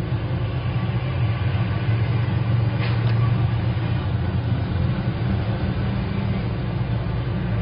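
Steady low rumble of background noise with a hiss above it, and a brief sharp scratch about three seconds in.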